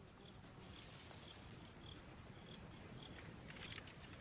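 Faint wild bush ambience: a steady high-pitched insect drone with scattered short, high chirps over a low background rumble.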